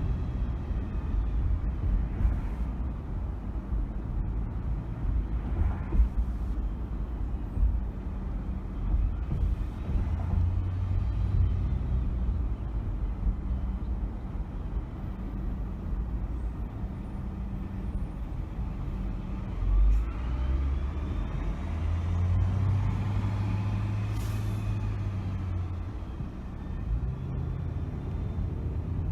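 A car driving through city streets: steady low engine and road rumble with a few light knocks. Other traffic passes, louder for several seconds about three-quarters of the way through, a heavy vehicle such as a truck or bus.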